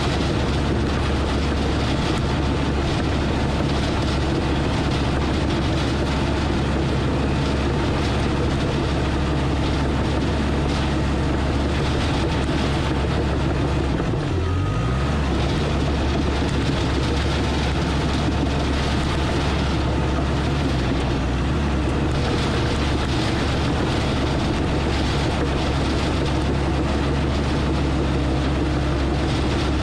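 Crawler bulldozer's diesel engine running steadily under load, with a brief dip in engine speed about halfway through before it picks back up.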